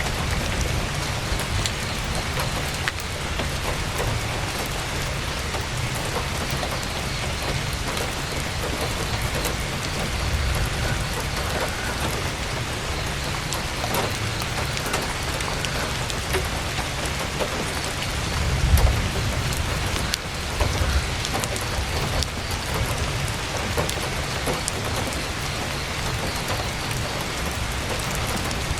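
Heavy rain falling steadily on a tent's fabric, with scattered sharp ticks throughout. A low rumble swells briefly about two-thirds of the way through.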